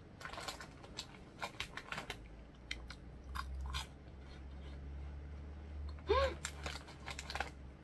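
Someone chewing crunchy puffed corn-potage snack balls close to the microphone: a string of irregular crisp crunches. About six seconds in there is one short, louder voice sound like an appreciative "mm".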